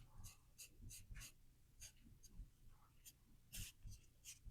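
Faint, irregular scratchy strokes of a paintbrush working paint onto a small wooden jar, about two or three strokes a second.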